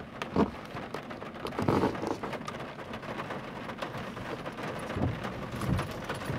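Rain hitting a car's windshield and roof, heard from inside the car, with irregular louder knocks and a longer swell about two seconds in.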